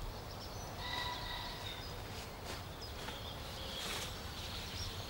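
Faint outdoor garden ambience: a low steady background with a brief, faint high-pitched call about a second in.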